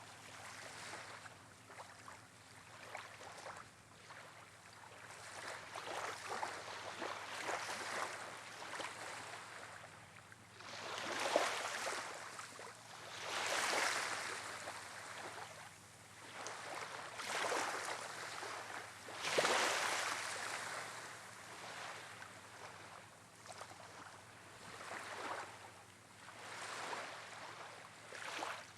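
Waves washing onto a shore on a windy day, the wash rising and falling every two to three seconds.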